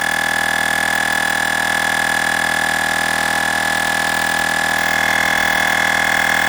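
Olgeo M7 portable air compressor running steadily while inflating a car tire: a continuous buzzing drone with a high whine and a slight rapid pulse in its level.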